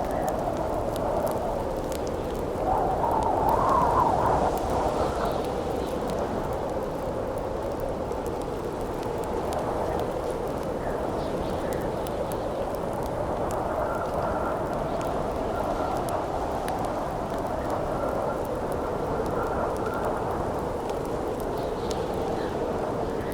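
Wind howling over a crackling wood campfire. The wind swells into a louder gust about three to four seconds in, and a faint whistle comes and goes in the middle, while small pops and crackles from the fire run underneath.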